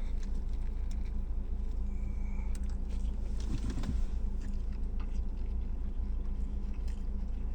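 A steady low hum in the background, with faint rustles and small clicks as a wrapped sub sandwich is handled before eating.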